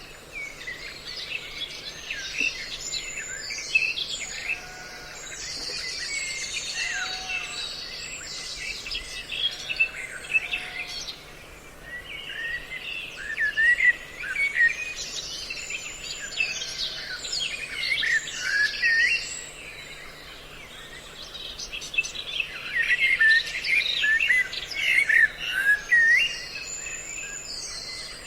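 A recorded mix of several songbird calls: many overlapping chirps and short whistled notes come in busy clusters and thin out briefly about twelve seconds in and again around twenty.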